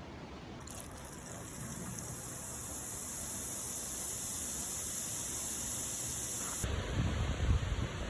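A steady high hiss starts abruptly about half a second in. Near the end it gives way to a rougher hiss with irregular low knocks.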